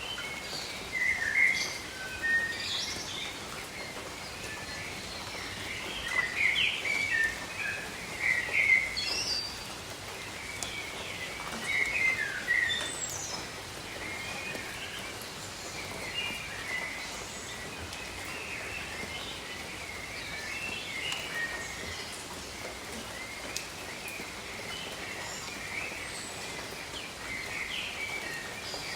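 Steady rain falling, with birds chirping and calling over it in short bursts, busiest in the first half.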